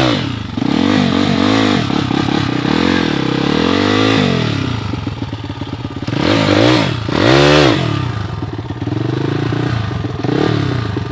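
Small pit bike's engine revved hard in repeated bursts, its pitch sweeping up and down as the bike struggles up a steep sandy slope, with two loudest revs a little past the middle.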